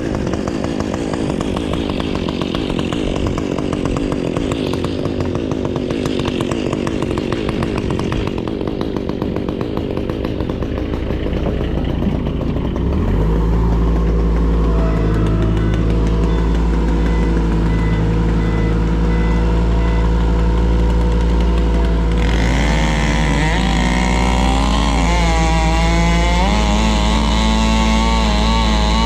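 Chainsaw cutting through a big piece of silver maple for about the first 13 seconds. Then a heavier, steady engine takes over, the Avant compact loader that is hooked to the piece to pull it, with a whine that rises and falls from about 22 seconds in.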